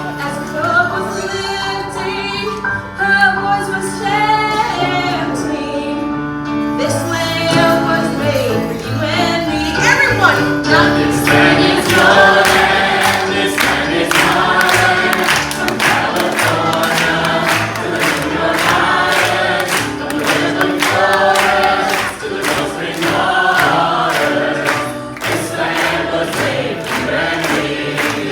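Several voices singing together over instrumental backing music in a stage musical number, with a steady beat coming in about ten seconds in.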